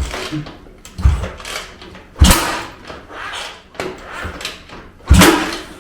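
Kickstarter of a 212cc single-cylinder engine being stomped about three times, a heavy clunk each time with a brief turning-over rush, the engine not yet catching.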